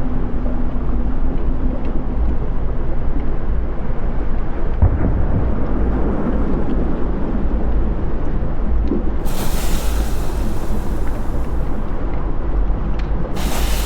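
Deep, continuous rumble of a volcanic eruption. About nine seconds in, a loud rushing hiss joins for a couple of seconds, and it returns near the end.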